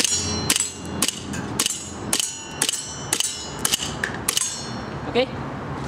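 Airsoft BBs striking steel plate targets: a rapid run of sharp metallic pings, about two a second, each ringing briefly.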